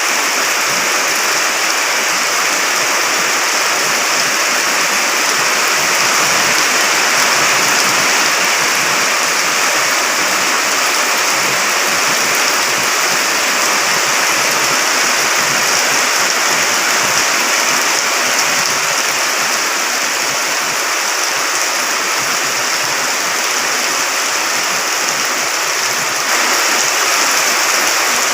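Steady, unbroken rushing of water after prolonged rain, growing slightly louder near the end.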